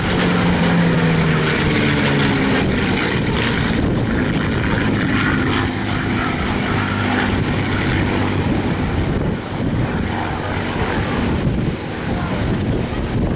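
Spitfire Mk IX's Rolls-Royce Merlin V12 engine heard as the aircraft flies past, its note falling in pitch over the first couple of seconds and then growing fainter. A steady rush of wind noise runs underneath.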